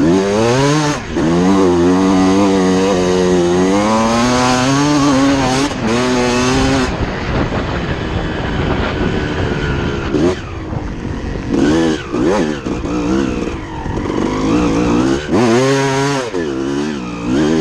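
Suzuki RM250 two-stroke motocross bike engine revving hard as it is ridden, its pitch climbing and dropping again and again with the throttle.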